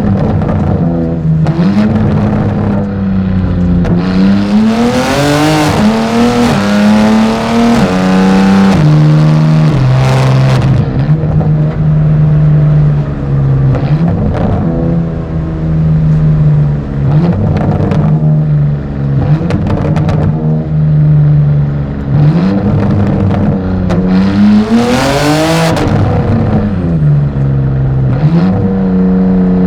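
BMW M4 GT4 race car's twin-turbo inline-six engine under hard driving, heard onboard: the pitch climbs and drops in steps again and again as it accelerates and shifts through the gears, with sharp crackles on the downshifts.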